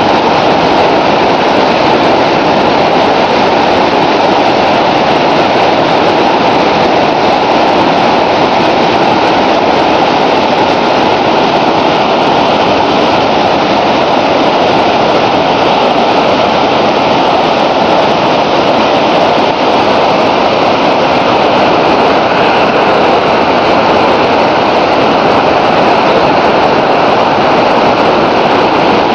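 Whitewater river rapids rushing, a loud steady wash of water noise.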